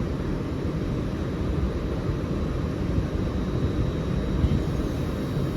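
Train moving along the platform line, a steady low rumble.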